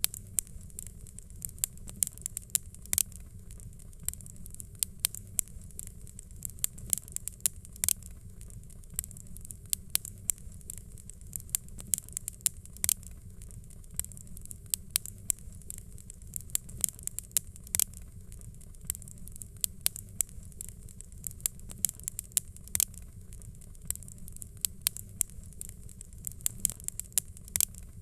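Fireplace fire crackling: irregular sharp pops and snaps, several a second, over a steady low rumble of flame.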